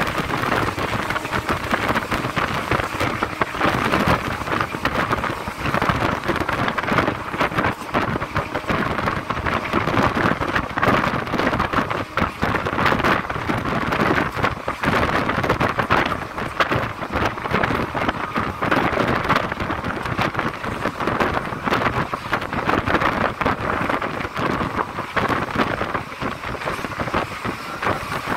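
Train running at speed, heard from on board: a steady, dense rush of wheel and track noise with constant rattling.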